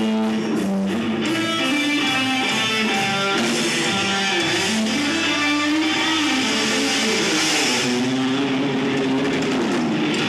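Live rock band playing an instrumental passage, an electric guitar carrying a moving melodic line over bass, at a steady loud level.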